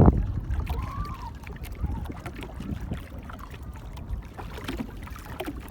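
Ride in a small boat: a loud rush of wind and water dies away at the start, then irregular low rumbling with a few faint knocks and splashes.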